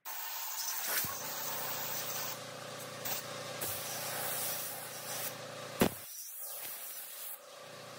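A steady hiss like a spray, over a steady hum, with a few sharp knocks; the loudest knock comes about six seconds in, and the hiss eases off soon after.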